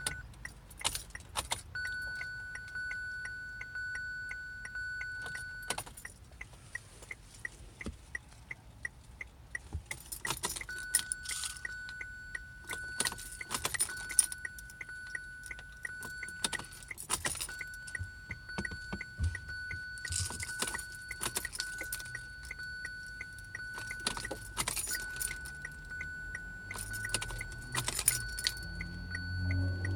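Car keys jangling again and again, over a steady high electronic tone that cuts in and out, with a quick regular ticking. Near the end a low hum starts and rises in pitch.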